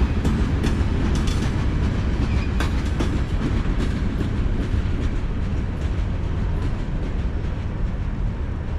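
Norfolk Southern freight train rolling past: a steady low rumble of wheels on rail, with scattered sharp clicks and clanks, most of them in the first three seconds.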